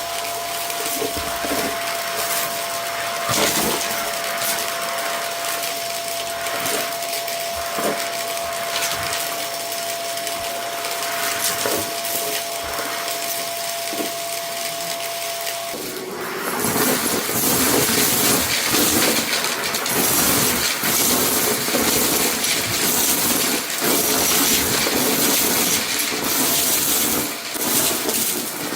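Vacuum cleaner running with a steady whine over its noise, with scattered clicks and rattles from debris being sucked up. About sixteen seconds in the whine drops away and the sound turns suddenly louder and rougher, with more rattling.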